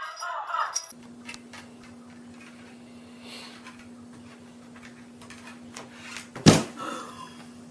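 A single sharp knock about six and a half seconds in, over a steady low hum with scattered small clicks.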